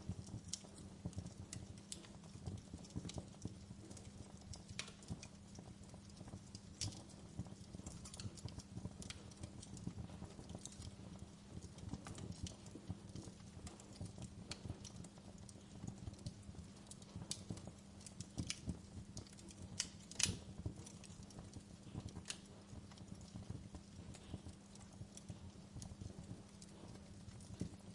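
Wood campfire burning: irregular small crackles, snaps and pops over a low steady rumble, with one sharper pop about two-thirds of the way through.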